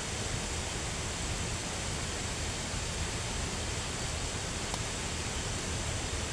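Steady rushing outdoor noise with a low, fluttering rumble, even throughout, with no distinct events.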